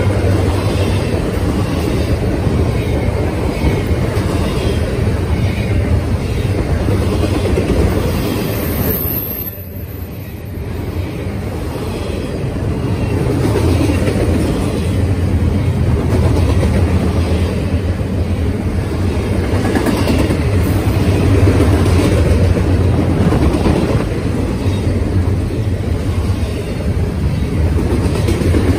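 Double-stack intermodal freight cars rolling past at speed: a steady rumble of steel wheels on rail, easing briefly about ten seconds in.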